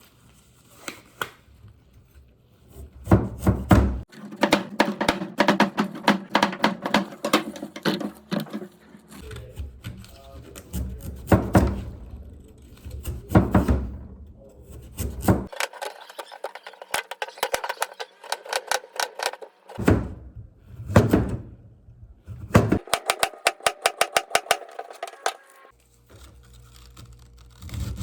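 Background music over runs of quick knocks from a knife chopping ingredients on a cutting board.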